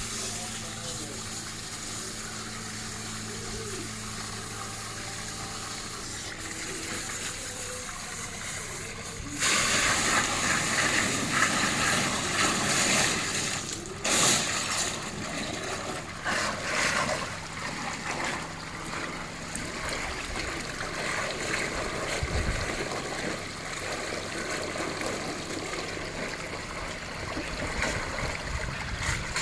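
Water rushing and splashing from a leaking underground water pipe. It starts suddenly and loudly about nine seconds in and keeps going unevenly.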